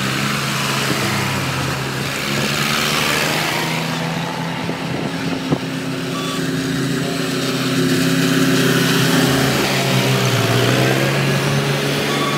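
Tractor engines running as tractors drive off, a steady low engine hum that dips in pitch and picks up again near the end.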